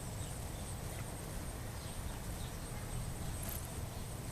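Steady outdoor background rumble and hiss, with a few faint, short high chirps from birds.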